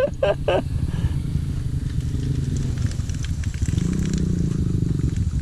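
Trail motorcycle engine running at low revs, with the throttle opening a little about four seconds in. A brief vocal sound comes right at the start.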